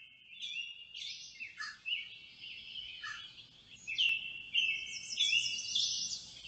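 Songbirds chirping and twittering: a run of short, high chirps that grows busier and louder from about four seconds in.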